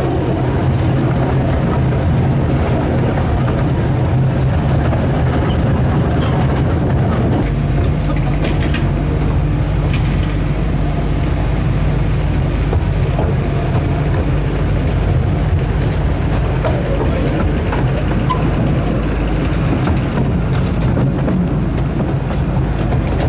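A vehicle engine running steadily with a low drone; its low note changes about seven and a half seconds in.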